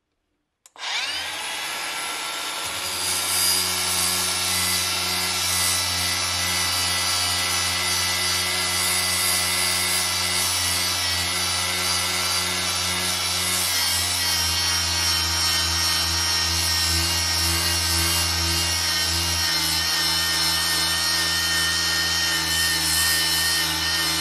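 An electric power tool spins up about a second in and then runs steadily, with a rubbing, abrasive sound of it working against steel. Its pitch shifts slightly about two-thirds of the way through.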